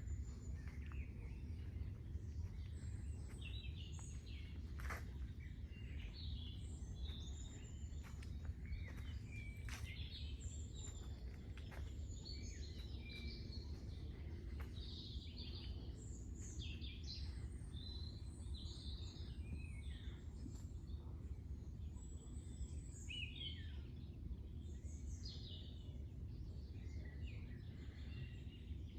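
Several small birds chirping and calling over a steady low rumble, with a few sharp clicks in the first half.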